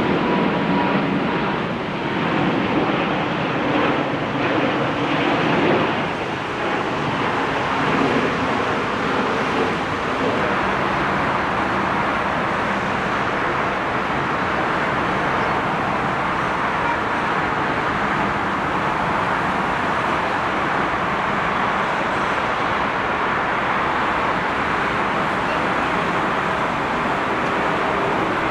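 Airbus A380 landing: a steady, even rushing noise of engines and airflow, with a faint steady whine in the first few seconds.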